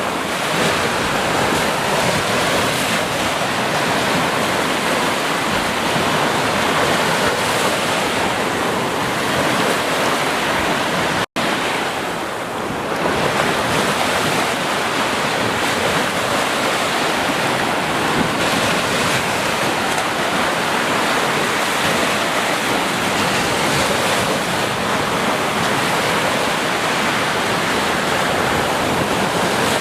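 Ocean surf washing steadily on a beach, a continuous roar of breaking waves. It cuts out for a split second about eleven seconds in.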